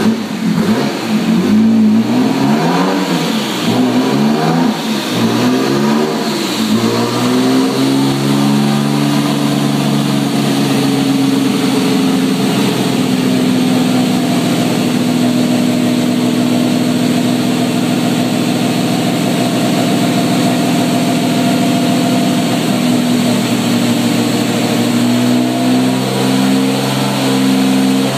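Nissan RB26 twin-turbo straight-six running on a dyno. Its revs are blipped up and down for the first several seconds, then held steady for most of the rest, with a small change in pitch near the end.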